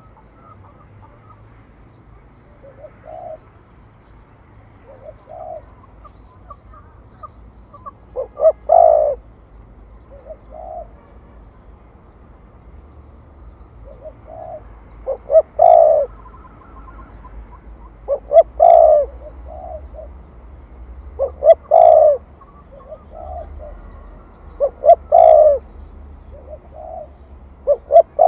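Spotted dove cooing repeatedly in the lively "thổ thúc gù" style. Each loud phrase is a few short coos run into a longer coo, and these come about every three seconds from about eight seconds in, with softer single coos between them.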